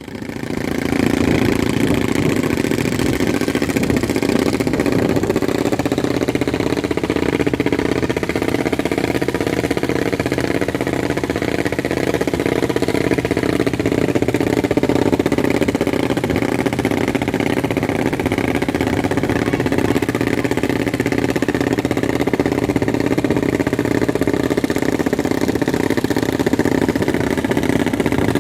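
Boat engine running steadily at an even speed, heard close up, with no rises or falls in pitch.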